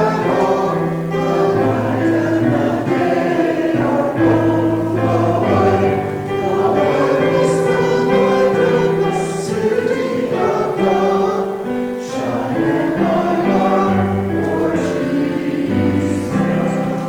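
A congregation singing a hymn together with piano accompaniment, held notes in steady phrases.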